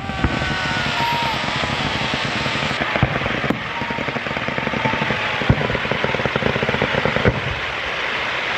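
Fireworks firing from the shore in a continuous rapid barrage, a dense hissing crackle with thin whistles in the first few seconds and a few sharper bangs scattered through.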